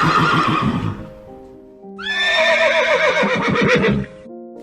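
Two loud animal calls over background music: the first fades out about a second in, and the second, from about two seconds in, starts high and falls in pitch with a fast shaking quiver for about two seconds.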